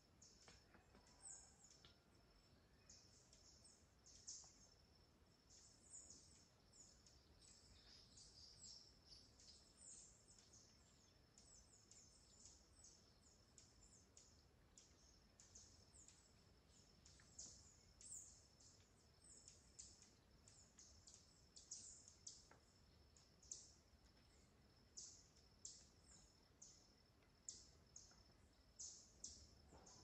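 Faint birds chirping in forest: many short, high chirps that sweep downward, several a second, over a thin steady high tone.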